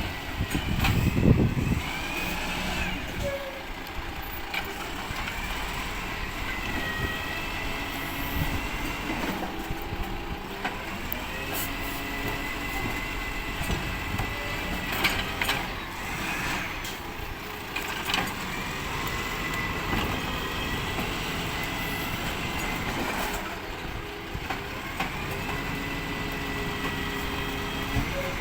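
Recycling collection truck running, with a repeated rising whine that holds for a few seconds at a time, and several clunks, typical of the hydraulic lift arm picking up and tipping kerbside bins.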